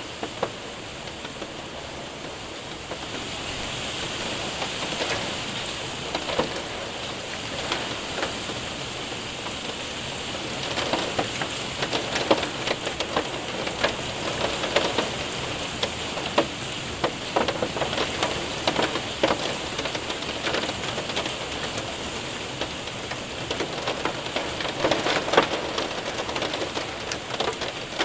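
Hail and rain hitting a window and roof: a steady rush of rain with many sharp ticks of hailstones striking, which come thicker and louder from about ten seconds in.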